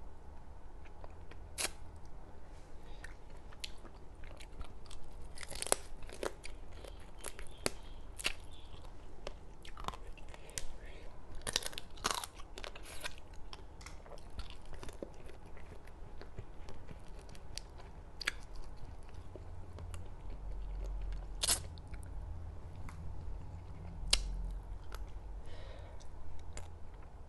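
Close-miked eating of a spicy seafood salad of crab, squid and shrimp: wet chewing with irregular sharp crunches and clicks.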